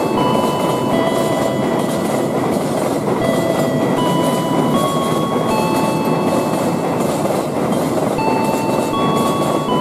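Train running, a steady rumble with several high tones on top that hold for half a second to a second and then jump to new pitches.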